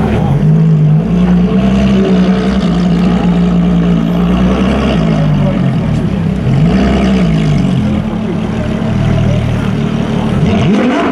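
Ferrari LaFerrari's 6.3-litre V12 idling steadily, blipped up and back down twice, once about six and a half seconds in and again near the end.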